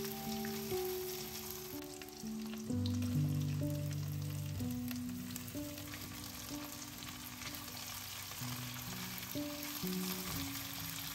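Food sizzling and crackling in oil in a frying pan, under background music of held notes that change every second or so.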